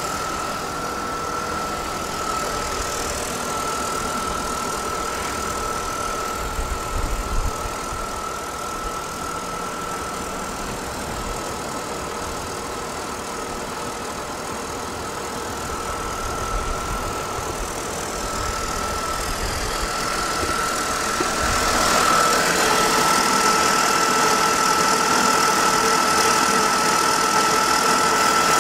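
2002 BMW 520i E39's 2.2-litre inline-six idling steadily, with a thin, high, steady whine over the engine hum. It grows louder about three-quarters of the way through.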